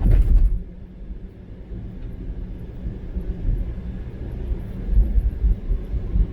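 Car driving on a rain-wet road, a steady low rumble of road and engine noise, with a brief louder rush right at the start.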